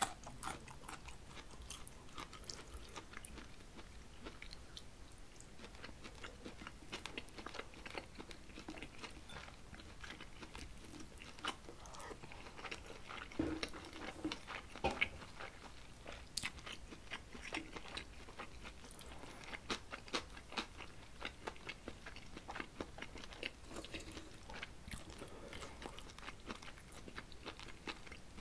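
A man chewing mouthfuls of Korean home-cooked food close to the microphone: soft chewing with many small, irregular clicks, a few louder ones about halfway through.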